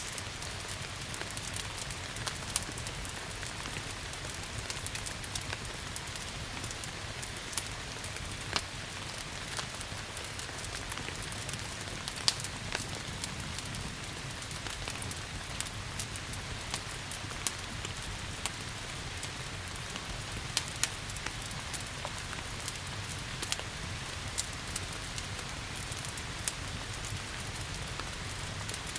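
Steady rain falling, with the crackles and sharp pops of a wood fire scattered throughout.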